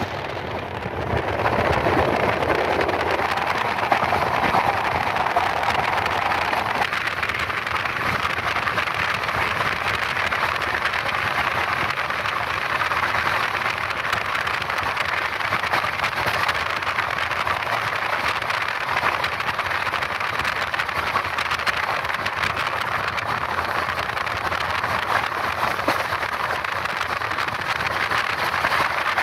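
Double-decker AC passenger train running at full speed, heard from an open coach doorway: a steady rush of wind and wheel-on-rail noise, growing louder about a second in.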